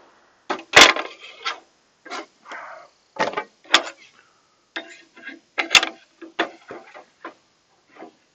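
Cut pieces of wooden board being handled and set down: an irregular run of sharp wooden knocks and clacks, the loudest about a second in and again near six seconds.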